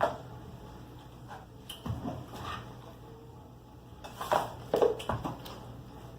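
Scattered knocks and clatters, a few at a time, with the loudest cluster about four to five seconds in.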